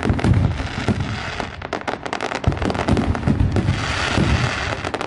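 A fireworks display: rapid, irregular bangs and crackles with low booms, and a hissing, crackling burst swelling about four seconds in.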